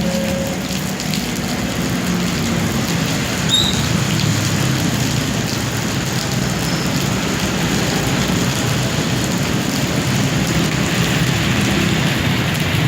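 Rapih Dhoho passenger train passing over a level crossing: a loud, steady rumble and rush of wheels on rails. There is a brief high squeal about three and a half seconds in, and the hiss grows louder near the end.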